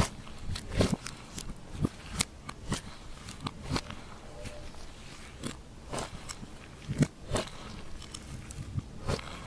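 Glossy slime being mixed and pressed, giving irregular sticky clicks and pops, a few each second.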